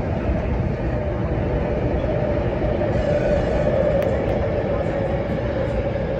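MTR Tuen Ma line Kinki Sharyo–Kawasaki electric train running, heard from inside the carriage: a steady rumble of wheels on track with a single whine that drifts slightly lower in pitch as the train comes into a station.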